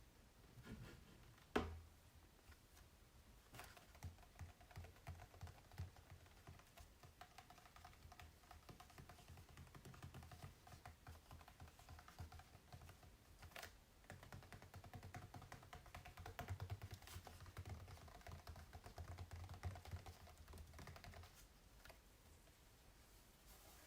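Fingers tapping on a painted canvas: quiet, quick, irregular taps with soft low thuds, and one sharper click about a second and a half in.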